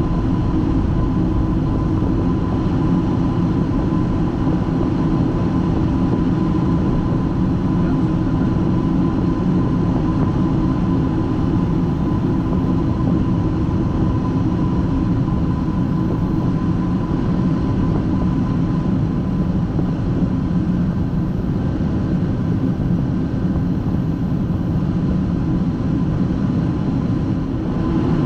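Steady drone of a Boeing 757-200 freighter's turbofan engines and airflow heard on the flight deck, with a constant high tone running through it.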